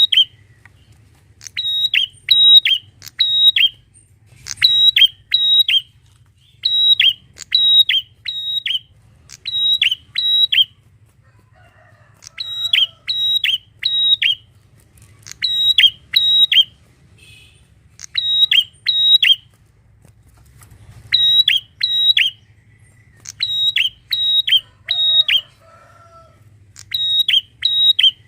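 Prenjak (prinia) calling loudly: sharp, high, clipped notes in quick runs of two to four, repeated every second or two with short gaps. A faint steady low hum runs underneath.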